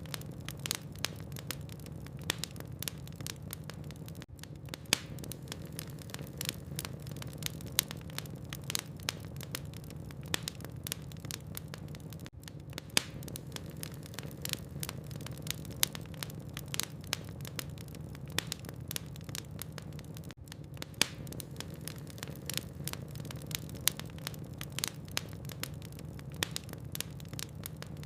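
Wood fire in a fireplace crackling: irregular sharp pops and snaps of burning logs over a steady low rumble.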